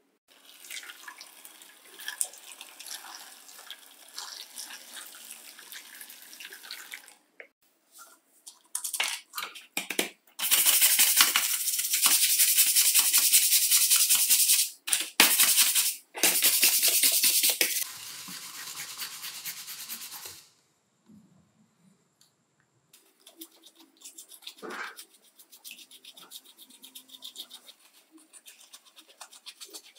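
A stiff brush scrubbed rapidly back and forth over a hard surface in several bouts, loudest in the middle, with short pauses. This is typical of cleaning grime off tool parts.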